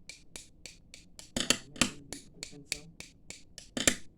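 A quick series of sharp snapping clicks, about four a second, with a few louder ones about a second and a half in and near the end.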